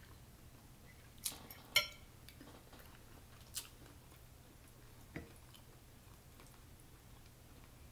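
A person eating shrimp: soft chewing with four sharp clicks, the loudest a little under two seconds in.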